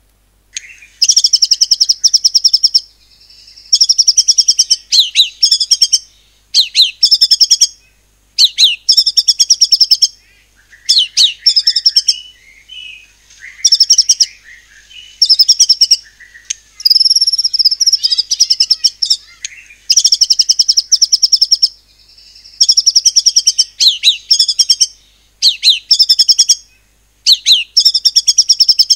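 White-rumped shama singing in 'nembak' style: loud bursts of very fast, rapid-fire repeated notes, each a second or two long, one after another with short breaks between them.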